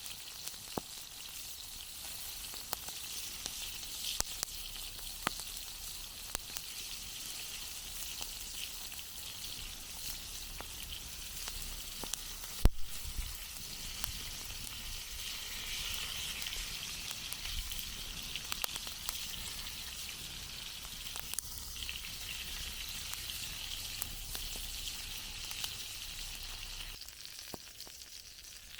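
Campfire burning with a steady hiss and frequent small crackles and pops, one much louder snap about halfway through.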